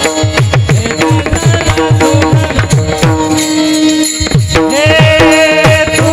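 Devotional kirtan music: tabla playing a steady rhythm, its bass strokes sliding down in pitch after each hit, under held melody notes. The drumming drops out briefly about four seconds in.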